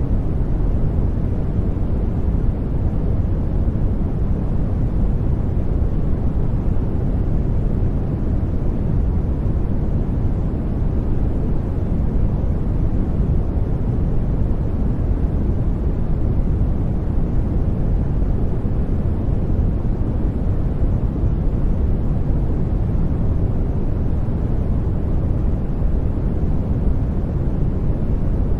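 Steady sleep noise track: an even, unchanging hiss weighted toward the low end, soft and deep like brown noise rather than a bright white hiss.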